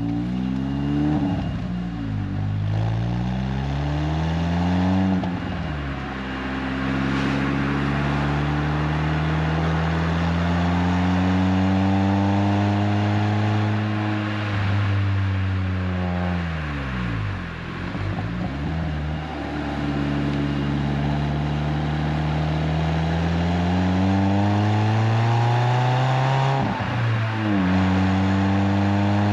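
Renault Twingo RS Gordini's four-cylinder engine running through an aftermarket Inoxcar 80mm stainless steel exhaust while driving. The pitch climbs under acceleration and drops at each gear change, about half a dozen times, with one slower fall and rise in pitch around the middle.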